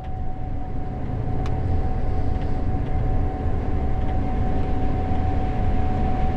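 Gleaner S98 combine harvesting corn, heard from the cab: a steady, heavy machine rumble with a constant high whine held over it.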